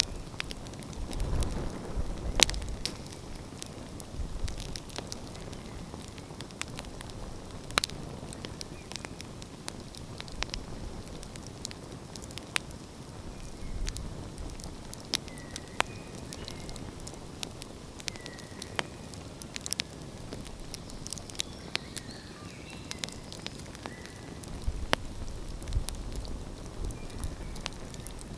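Wood fire crackling, with sharp pops at irregular intervals, the loudest about two and a half seconds in, over a low rumble that swells at the start and again near the end.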